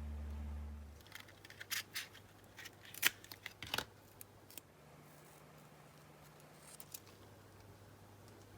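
Scissors cutting through glitter felt in a series of crisp snips, clustered from about one second in to about four and a half seconds. A low steady hum cuts off about a second in.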